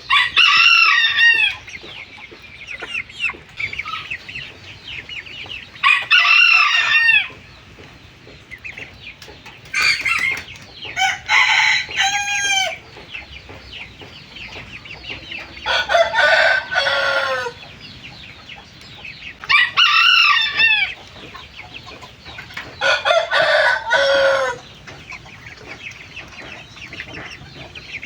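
Young white parrot-beak Aseel chickens, about three months old, giving about six loud crowing calls a few seconds apart, several ending in a falling pitch, with softer clucking between them.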